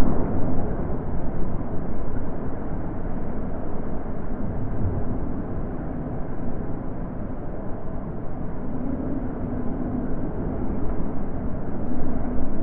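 Wind blowing in low, steady gusts, a deep rushing that swells and eases over several seconds, louder at the start and again near the end.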